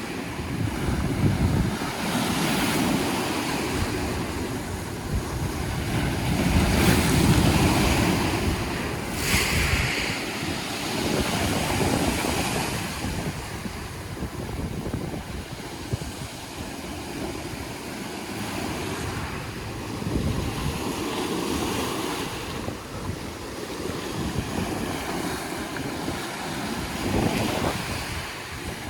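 Sea waves washing onto the shore, swelling and ebbing every few seconds, with a brighter splash about ten seconds in. Wind buffets the microphone throughout as a low rumble.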